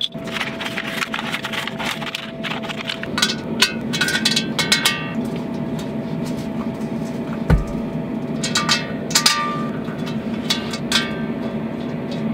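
Wood fire burning in a small portable charcoal grill: irregular sharp cracks and pops, some with a brief metallic ring, over a steady low rush.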